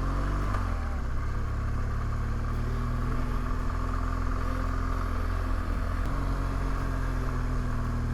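Motorcycle engine running steadily while riding, its note shifting briefly about half a second in and again around six seconds in.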